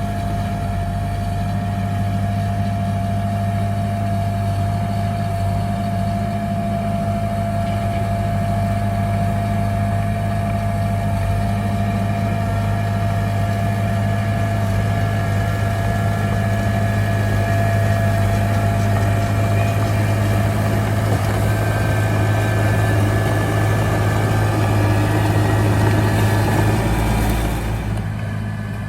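Bulldozer's diesel engine running steadily, a deep drone with a thin steady whine over it. It works a little harder toward the end, then eases off shortly before the end.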